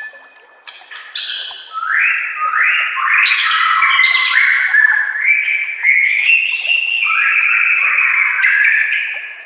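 White-rumped shama (murai batu) singing a long run of harsh, repeated notes, about two a second, starting about a second in and fading out near the end.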